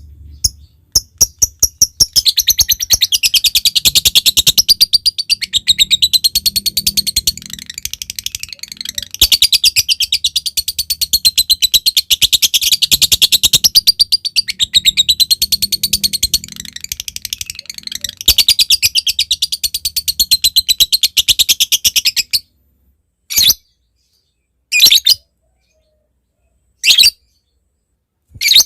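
Lovebird calling: a few sharp ticks, then a long, very fast rattling chatter of high notes lasting about twenty seconds. This is the ngetik-then-ngekek song keepers prize. It cuts off suddenly and is followed by four separate short calls.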